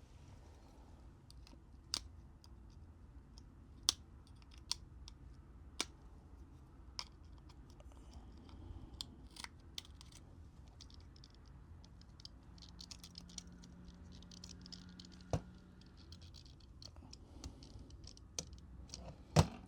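Scattered light clicks and taps of fingers and small tools handling the opened phone's internal parts, with a stretch of faint rapid scratching and ticking in the second half and one sharper click near the end, over a low steady hum.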